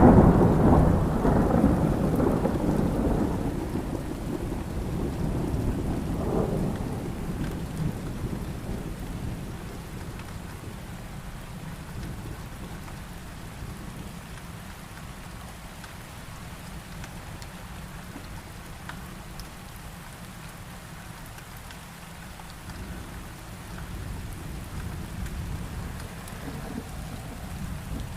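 Thunderstorm: a loud thunderclap right at the start rolls and rumbles away over about ten seconds, with a second smaller roll about six seconds in, over steady heavy rain that carries on alone afterwards.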